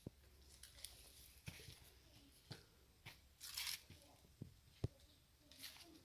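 Faint, irregular crunches and clicks of footsteps on a hiking trail.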